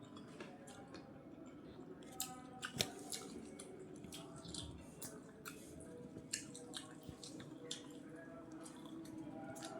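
Close-miked wet chewing and mouth smacks of someone eating rice with vegetable curry, with irregular sharp clicks, the loudest a little under three seconds in.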